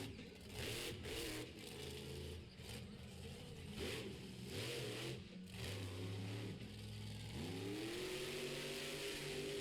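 Monster truck engine revving up and down, with a rising rev about seven and a half seconds in.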